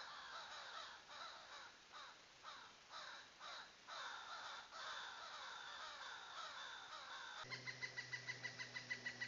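Wild birds calling, a series of repeated falling calls about two a second. Then a rapid pulsing call, about seven pulses a second, over a low steady hum.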